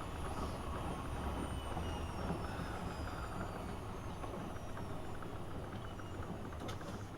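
AEG Öko Lavamat 72520 washing machine running with a steady low hum and faint high whines that fall slowly in pitch as the level eases, like the drum motor slowing down.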